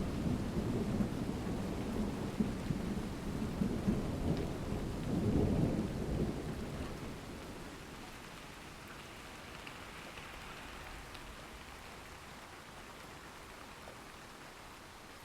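Thunder rumbling over steady rain, swelling about five seconds in, then fading away to leave the rain hissing on its own.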